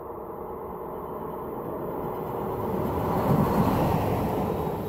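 Electric locomotive-hauled train passing through the station: the rumble and rush of wheels on rail swell to a peak about three and a half seconds in, then begin to fade.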